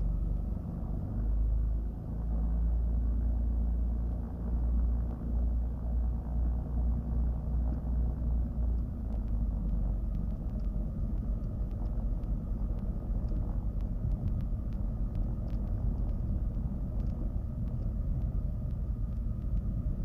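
Twin piston engines of a Cessna 310Q running at low power, a low rumble that swells and dips for the first half and then settles steadier, with a few faint clicks later on.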